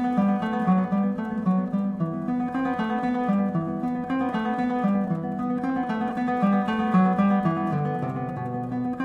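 Background music: acoustic guitar played in a steady picked and strummed pattern.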